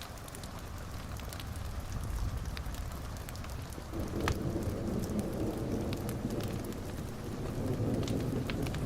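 Rain falling with scattered sharp drop ticks, and rolling thunder that swells into a low rumble about four seconds in and keeps going.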